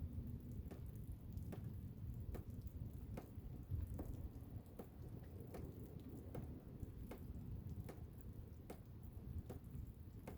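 Blizzard wind making a faint, steady low rumble, with light irregular ticks about one or two a second.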